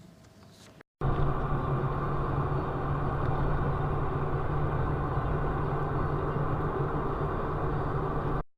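Steady road-vehicle rumble, starting abruptly about a second in and cutting off suddenly near the end, with no crash or impact heard.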